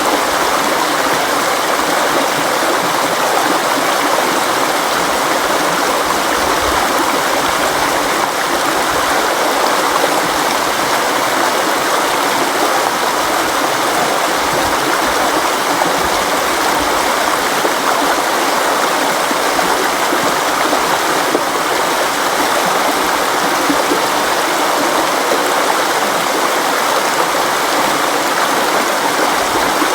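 A river or stream flowing over rocks: a steady rushing and burbling of water with no breaks.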